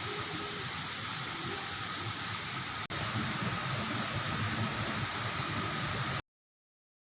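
Steady rushing of a waterfall, an even roar of falling water with no single strokes in it. It breaks off for an instant just under three seconds in, then cuts off abruptly about six seconds in.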